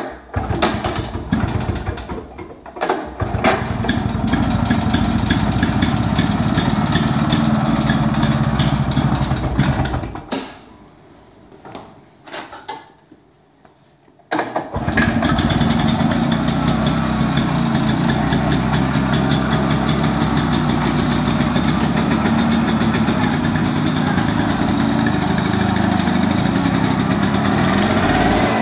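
Ilo L251 LR two-stroke engine on an Agria 1700 single-axle tractor starting and running steadily. It stops about ten seconds in, catches briefly twice, then starts again about fourteen seconds in and runs evenly.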